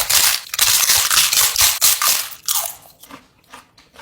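Close-miked crunching as a giant spicy tortilla chip of the One Chip Challenge kind is bitten and chewed: rapid loud crunches, thinning to a few softer crunches in the last second or so.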